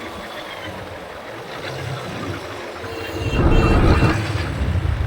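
Road traffic heard from a moving motorbike: a steady noisy road sound that swells into a loud low rumble about three seconds in, with a few short high beeps around then.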